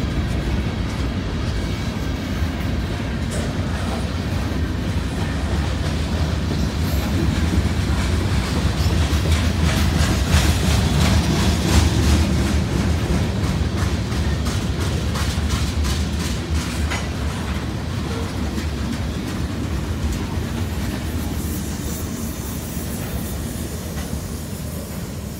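Freight cars (covered hoppers and tank cars) rolling past with a steady wheel-on-rail rumble and clickety-clack of wheels over rail joints, busiest about halfway through. The sound fades toward the end as the last car goes by.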